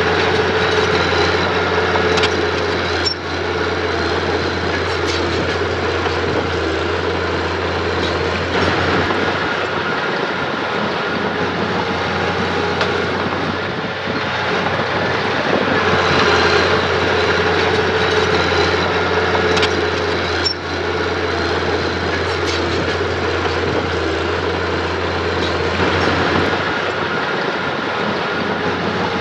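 Heavy earthmoving machine's diesel engine running steadily under varying load, swelling and easing every several seconds, with a few short clanks.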